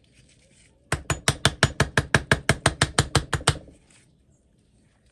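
A fast, even run of about seventeen light metal taps on the cast vise, about six a second, each ringing briefly. They start about a second in and stop suddenly after nearly three seconds, as the newly fitted dust seal is tapped into place.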